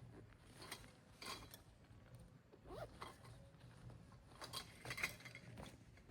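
Faint, scattered clicks and rustles of small objects being handled, with a couple of brief squeaks.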